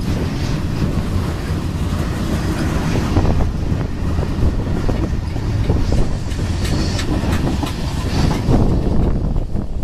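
Freight train cars rolling past close by: a steady low rumble with the clatter of steel wheels on the rails.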